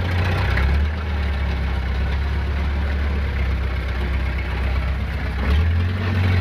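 A vehicle engine running steadily with a low drone; its note rises a little and gets louder about five and a half seconds in.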